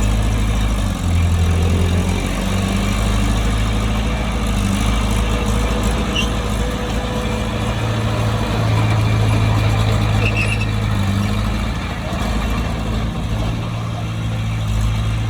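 Bulldozer's diesel engine running steadily at a low, heavy pitch that shifts slightly as the load changes.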